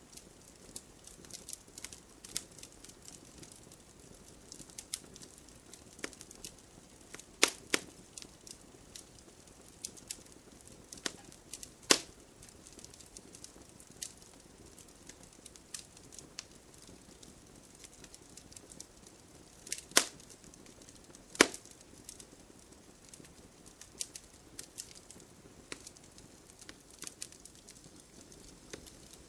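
Wood fire burning, crackling with a scatter of small snaps and a few louder pops from the burning wood.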